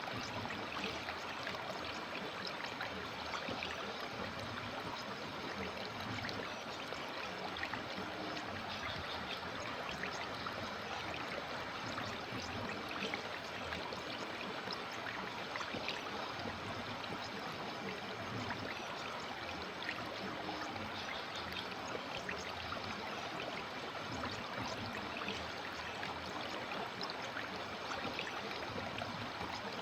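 River water flowing: a steady, even rush with many small splashes through it.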